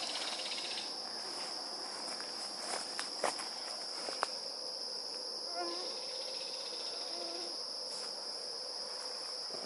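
Steady high-pitched chorus of insects singing in summer vegetation, with a few faint clicks a few seconds in.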